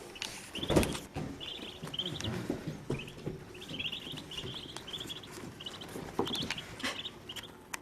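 One-day-old Muscovy ducklings peeping: short, high cheeps in quick runs, one after another. A knock sounds about a second in, with a few fainter knocks later.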